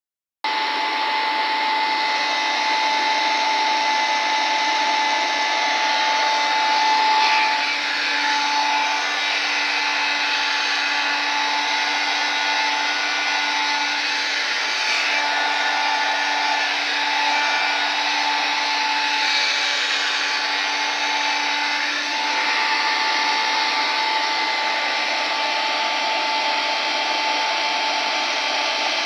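Hair dryer running steadily: an even rush of blown air with a constant whine, starting abruptly about half a second in.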